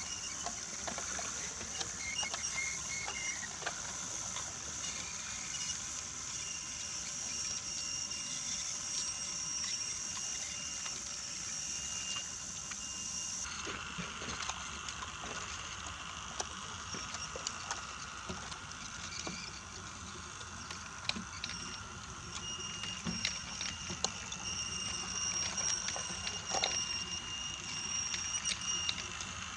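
Brio wooden toy train running on wooden track: a small electric motor whines steadily while the wheels click over the track joints. The whine changes pitch about halfway through.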